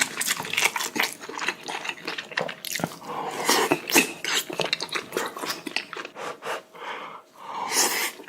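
Close-miked eating: a large mouthful being bitten and chewed, with wet smacking and many irregular clicks, and a few louder noisy mouth sounds partway through and near the end.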